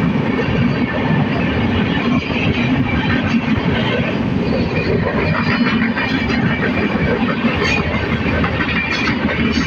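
Passenger train running past close by: a steady, loud rumble of wheels on rails, with a few faint clicks near the end.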